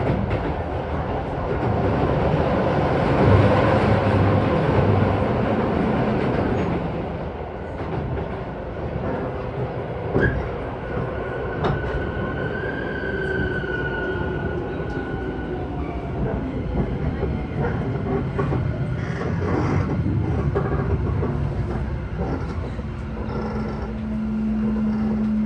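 Keisei 3000 series electric train heard from inside the car as it runs and slows into a station: wheels on the rails with rushing noise that eases off after the first few seconds, and a thin whine in the middle. A steady low tone starts near the end.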